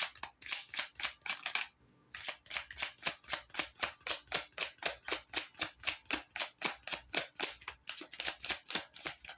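Tarot deck being shuffled by hand: a steady run of soft card slaps, about five a second, with a short break about two seconds in.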